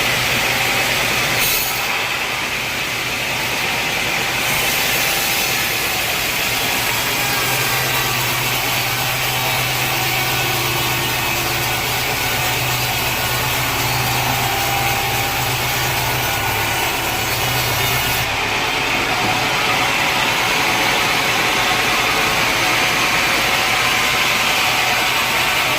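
Sawmill saw cutting through a large teak log, a loud steady sawing noise. A low engine hum runs beneath it from about four seconds in and drops out at about eighteen seconds.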